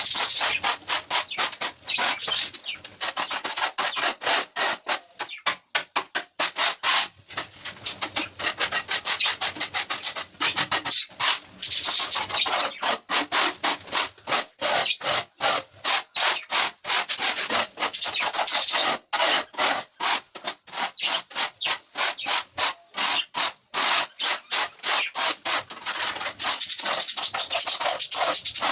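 Dried loofah gourd being rubbed and scraped clean by hand, with quick repeated dry scraping strokes, several a second.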